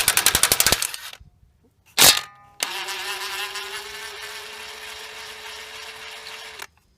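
Dewalt DCF894H 20 V cordless impact wrench hammering rapidly for about the first second, then stopping. A single sharp metallic clank follows about two seconds in. The wrench then runs freely with a steady, slightly rising whir for about four seconds, spinning without impacting, and cuts off suddenly near the end.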